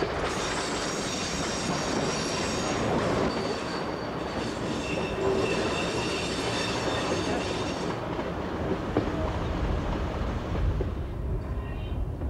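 Diesel multiple unit running along the branch line, heard from on board, with wheel squeal ringing in several high steady tones over the running noise. After about eight seconds the squeal stops and a low rumble takes over.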